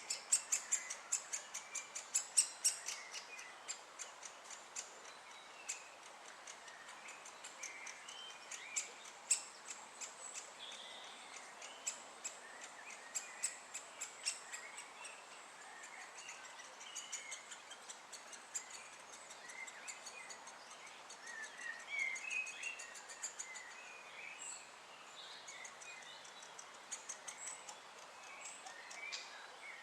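Great spotted woodpeckers calling: a long run of short, sharp, high-pitched calls, several a second, loudest in the first few seconds. Softer chirps of other birds are scattered throughout.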